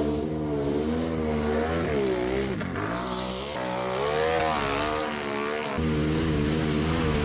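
Off-road vehicle engine revving hard, its pitch rising and falling again and again as the throttle is worked. The sound changes abruptly near the end.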